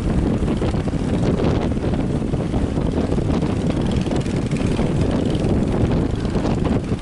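Fishing boat engine running steadily, mixed with strong wind buffeting the microphone.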